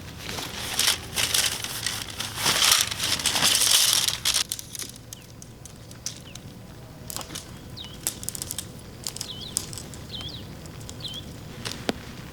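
Rustling and crinkling, heaviest over the first four seconds, then lighter scattered clicks with a few short high chirps.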